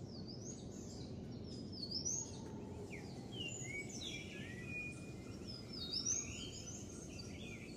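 Several birds calling and singing together: many short whistled notes that slide up and down, overlapping one another, over a steady low background hiss.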